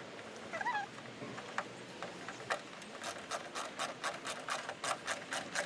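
Socket ratchet clicking in quick, uneven strokes, about four to five clicks a second, starting about three seconds in; a short squeak about half a second in.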